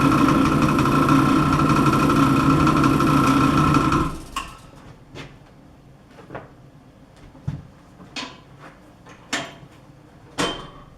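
Rebuilt drill press running, a steady motor hum with a few fixed tones, at a slow, high-torque spindle speed; it stops abruptly about four seconds in. After that come a handful of light knocks and clicks, roughly one a second.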